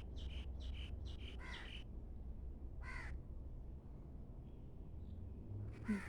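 Birds calling outdoors: a quick series of short calls in the first two seconds and one more about three seconds in, over a low steady rumble.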